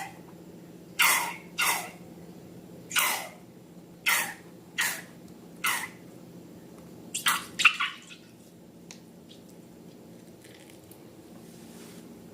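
Wet squirts of liquid slime ingredients squeezed out of balloons: about ten short squirts, each falling in pitch, with a quick cluster of them about seven seconds in, then quiet. A faint steady low hum runs underneath.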